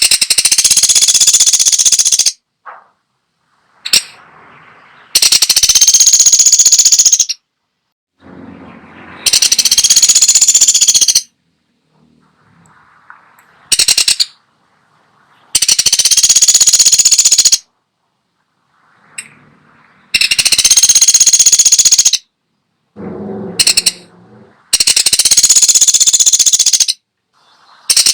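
Woodpecker (pelatuk Sampit) calling: six high-pitched rattling bursts of about two seconds each, made of very fast repeated notes and a few seconds apart.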